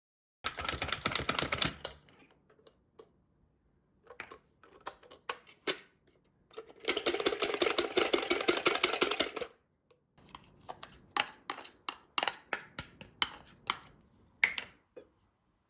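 Two runs of rapid clicking and tapping, each lasting a second or two, with scattered single clicks between them. This is kitchen utensil work during home cooking.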